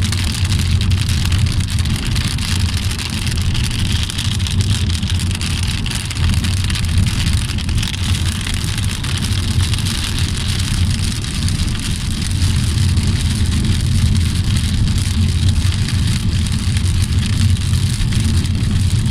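Steady low rumble of a car driving, with rain hissing and pattering on the car.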